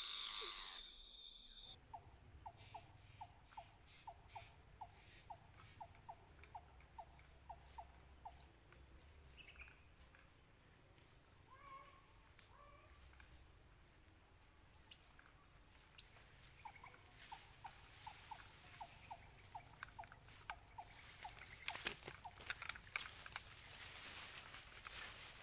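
Insects making a steady high whine with a pulsing note above it. Trains of quick, evenly spaced chirps, about three a second, come twice, and rustling clicks build near the end.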